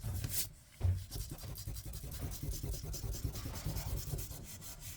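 Pencil-style eraser rubbing quickly back and forth over the surface of an old paper card, scrubbing off ink smudges transferred from other papers. A brief louder scrape about half a second in and a soft knock just before one second.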